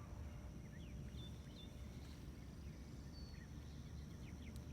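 Faint birdsong in the open countryside: scattered short chirps and whistles from several birds, over a steady low rumble and a thin, steady high tone.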